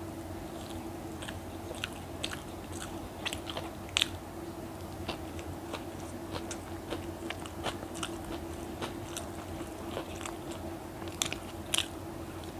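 A person chewing and biting egg toast close to the microphone, with many short sharp mouth clicks. The loudest clicks come about four seconds in and again near the end.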